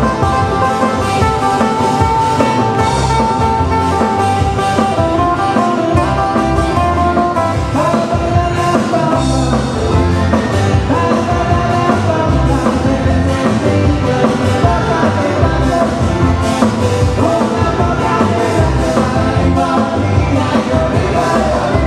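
A live band playing a Hawaiian song: guitar and drums, with a singing voice.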